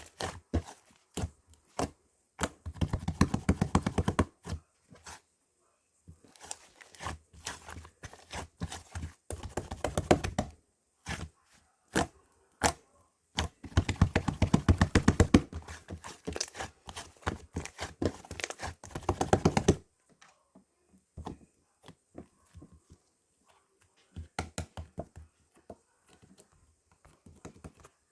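Cloud slime being pressed and poked, giving runs of quick sticky clicks and crackles. The clicks are densest for about two seconds near the start and for about six seconds in the middle, and thin to scattered taps in the last third.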